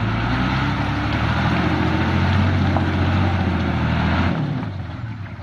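Hino diesel truck engine running hard under load with a steady note, then dropping away sharply about four seconds in as the throttle comes off.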